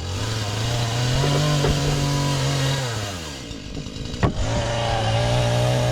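Husqvarna 435 two-stroke chainsaw cutting wood at full throttle. It eases off about three seconds in, then revs back up, with a single sharp knock in between.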